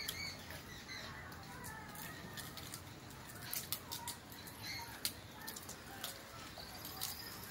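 Birds chirping now and then over a steady outdoor background, with scattered light clicks and taps.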